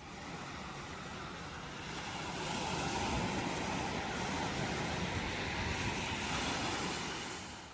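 Ocean waves washing onto the shore: the surf swells about two seconds in, holds, and recedes near the end.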